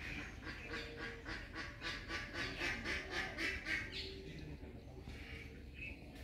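A fast run of short bird-like calls, about five a second, that grows louder and stops about four seconds in.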